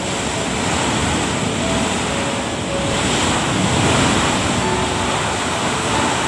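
Heavy rain and strong gusting wind: a steady loud rush of noise that swells about three to four seconds in.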